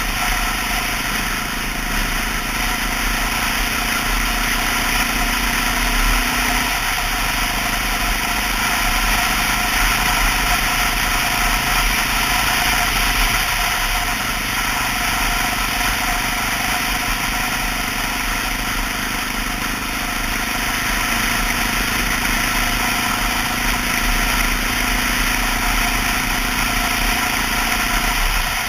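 Honda XR650L's single-cylinder four-stroke engine running on the move under steady wind rush. The engine note dips briefly three times.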